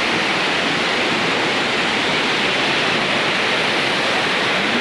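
A waterfall rushing and splashing close by, a loud, steady, unbroken roar of falling water.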